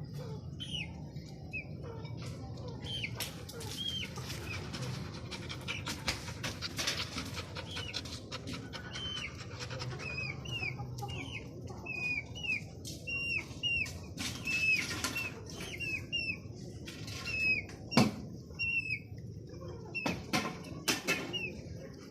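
Small birds chirping: short, hooked calls repeating several times a second, with scattered clicks and rustles and one sharp knock near the end.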